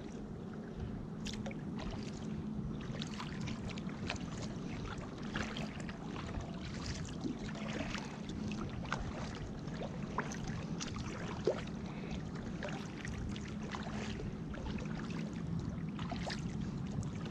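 Water lapping and light splashes around a kayak on the river, with scattered small clicks and ticks over a steady low background.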